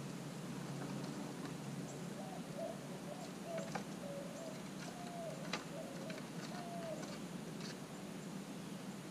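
A bird calling in a series of short low notes, over a steady low hum. A few sharp clicks and scratches come in the middle, the eastern gray squirrel's claws on the wooden fence boards as it climbs down.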